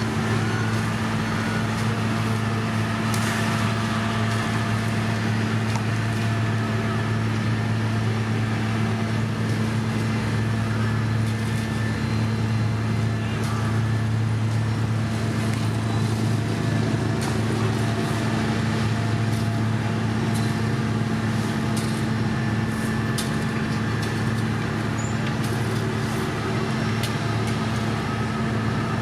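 Heavy construction machine's diesel engine running steadily with an even, low hum and no change in speed, with a few faint clicks over it.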